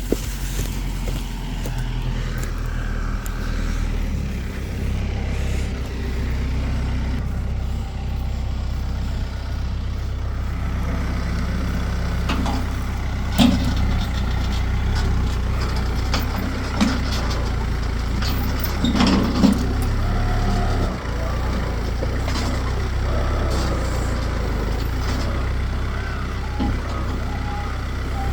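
A large vehicle engine running steadily at low speed, with a few sharp knocks in the second half.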